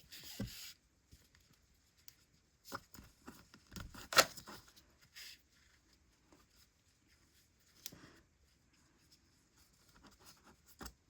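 Hands working yarn and a sewing needle through a small crocheted piece: quiet rustling and scattered clicks, with one sharper tap about four seconds in.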